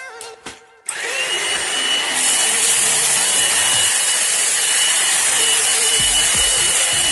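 Avreology cordless stick vacuum cleaner switched on about a second in and running steadily, a loud rushing of air with a constant high-pitched motor whine.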